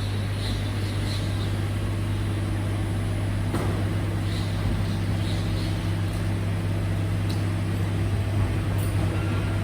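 Garbage truck running with a steady low hum that shifts slightly about three and a half seconds in.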